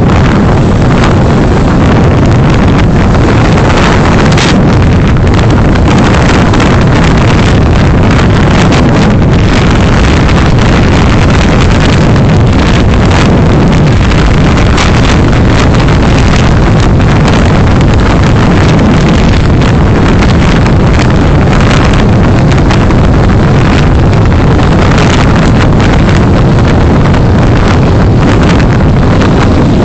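Car driving on the road as recorded by a dashcam microphone: a loud, steady rumble of road, engine and wind noise with a constant crackle, close to distorting.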